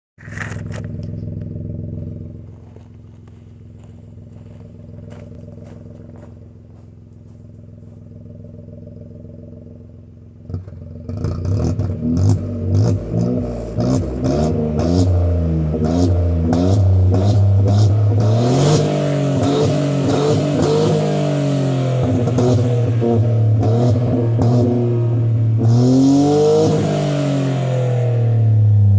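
Citroën C4 Cactus 1.2 turbo three-cylinder with its muffler deleted and a 2.5-inch exhaust. It idles steadily for about the first ten seconds, then is revved repeatedly, the pitch rising and falling with each blip, with a couple of longer revs near the end.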